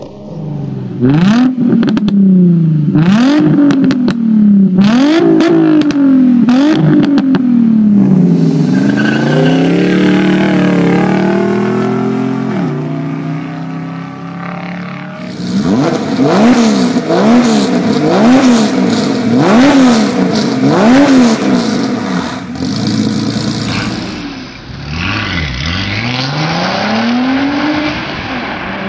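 Several different cars accelerating hard one after another, each engine's pitch climbing through a gear and dropping at every upshift. It opens with a Mazda RX-8's rotary engine, has a Nissan Titan with a Borla exhaust partway through, and ends with a Stage II 2001 Audi S4.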